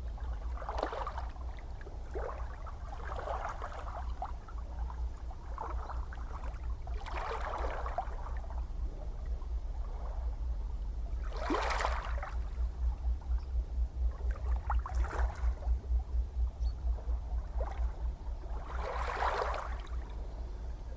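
Small ocean waves lapping and splashing, a surge every few seconds, over a steady low rumble.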